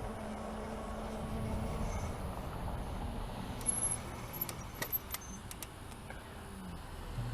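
Bicycle riding along a road: steady rolling and wind noise, with a short run of sharp clicks and rattles from the bike about halfway through.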